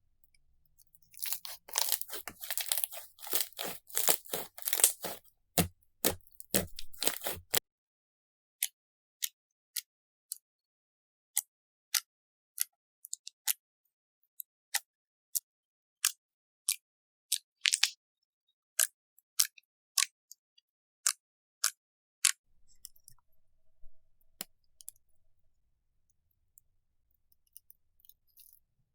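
Crunchy slime being squeezed and pressed: dense crackling for about six seconds, then a long run of single sharp crackling pops, roughly one every two-thirds of a second, with faint soft squishing near the end.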